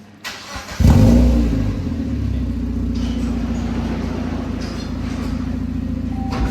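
Mazda MX-5 four-cylinder engine through a newly fitted aftermarket exhaust starting up. It cranks briefly, fires with a loud flare about a second in, then settles into a steady idle.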